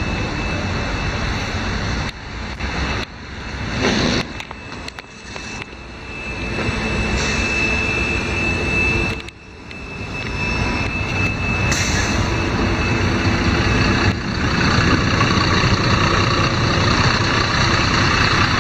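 LiAZ-5292.22 low-floor city bus driving, heard from inside the passenger cabin: engine and road noise that drops off sharply about halfway through, then builds up again and stays loud.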